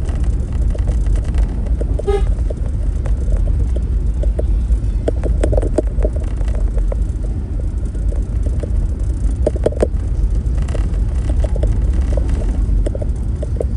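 A road vehicle on the move with a heavy, steady low rumble, and a short horn toot about two seconds in. Brief knocks come and go over the rumble.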